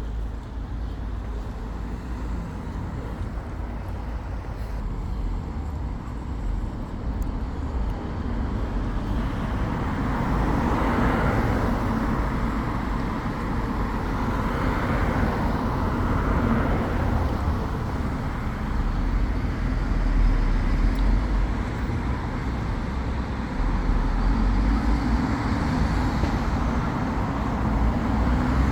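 Road traffic going by: a steady rumble of engines and tyres, swelling and fading several times as vehicles pass, most strongly about a third to halfway through.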